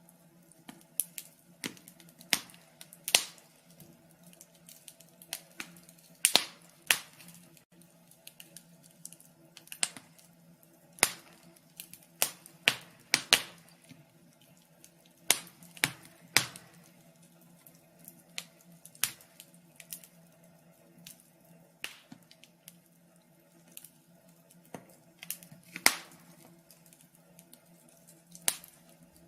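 Wood fire crackling in a fireplace: irregular sharp pops and snaps, a few every second, some much louder than the rest, over a faint steady hum.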